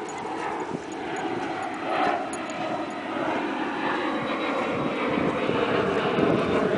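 Jet aircraft flying over out of sight: a steady rush of engine noise that grows gradually louder.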